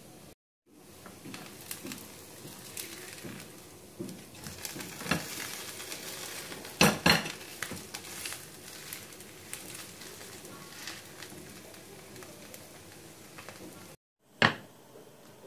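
Food sizzling as it fries in a pan, with a utensil stirring and clinking against the pan; a pair of louder knocks about seven seconds in.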